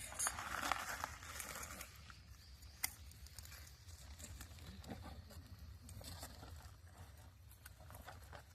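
Small wood campfire crackling with scattered sharp pops and ticks, and a brief rustle near the start.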